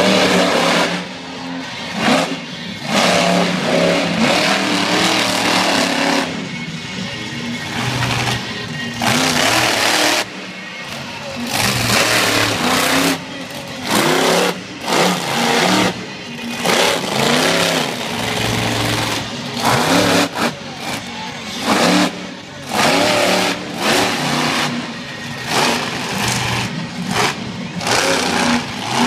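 Monster truck engines revving hard in repeated bursts, the pitch rising and falling with each push of the throttle, with short drops in level between bursts.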